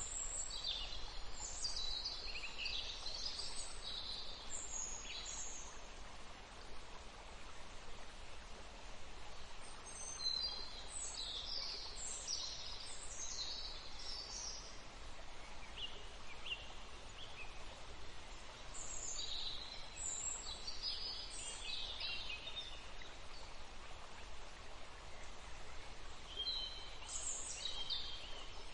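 Songbirds singing in groups of quick, high phrases that come back every several seconds, over a steady background hiss.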